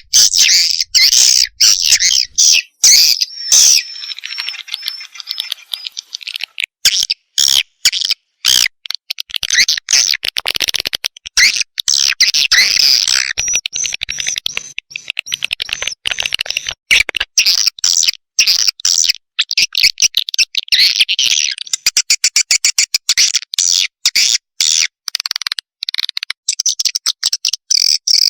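Swiftlet lure recording of swiftlet chicks calling: dense, high-pitched chirping and twittering broken by short gaps, turning into very fast repeated chirps from about twenty seconds in. It is the kind of call played to draw swiftlets into a nesting house.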